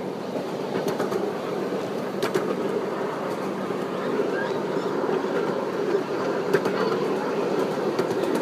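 Passenger train car rolling along the track: a steady rumble of wheels on rail, with a few sharp clicks scattered through it.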